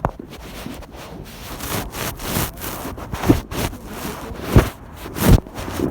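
Rustling and rubbing noise with several dull thumps, the loudest three coming in the second half, typical of a handheld microphone being handled and buffeted while walking.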